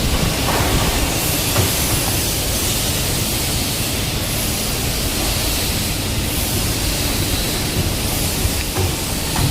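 Steady loud machine noise from the pipe-bending shop: a continuous hiss with a low rumble underneath and a few faint knocks.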